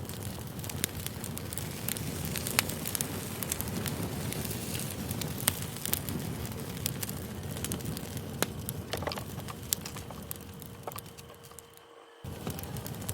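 Campfire burning, with a steady low rush and frequent sharp crackles and pops. Near the end it fades out briefly and starts again.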